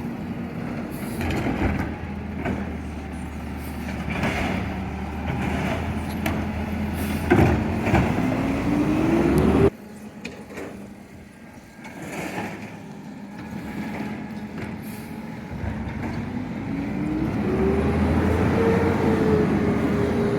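Garbage truck engine running and speeding up twice, its pitch climbing each time, with an abrupt cut about ten seconds in.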